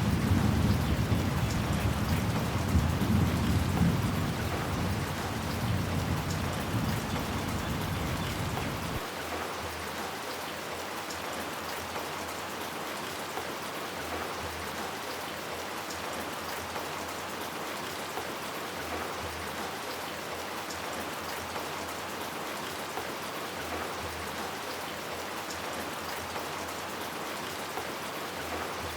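Steady heavy rain, with a low rumble of thunder fading over the first nine seconds or so and then cutting off abruptly, leaving only the rain.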